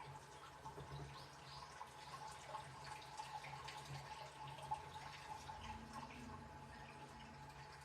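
Washing machine running mid-cycle: faint water splashing and dripping inside the drum, with small scattered ticks over a steady low hum.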